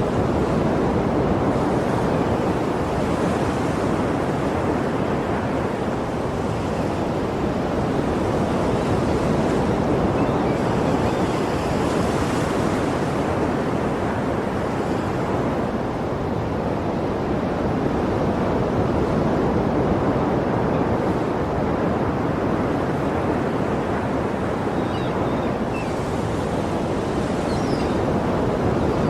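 Sea waves washing steadily onto a shore, a continuous surf noise with gentle swells in loudness.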